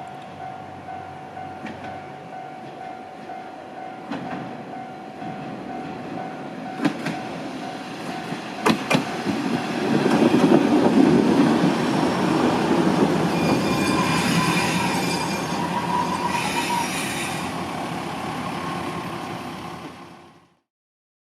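Akechi Railway diesel railcar running on the line, a steady rumble that grows louder toward the middle, with a few sharp clicks of wheels over rail joints and a brief high wheel squeal about two thirds through. It dies away near the end.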